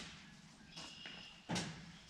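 Light handling knocks of bucket-tooth hardware being fitted: a click at the start, a brief high ringing tone a little under a second in, and a sharper knock about a second and a half in.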